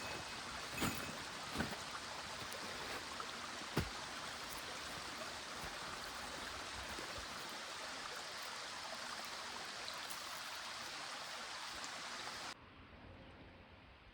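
A small stream running steadily, with a few sharp clicks in the first four seconds. The water sound cuts off abruptly near the end, leaving a much quieter background.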